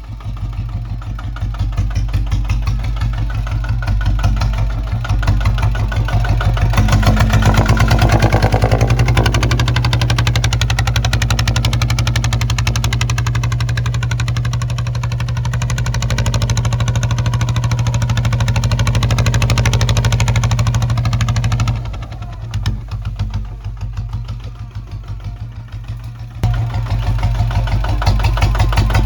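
Kubota ZT155 single-cylinder diesel engine running steadily under plowing work. It pulls louder from about seven seconds in, eases off briefly a little past twenty seconds, then picks up again near the end.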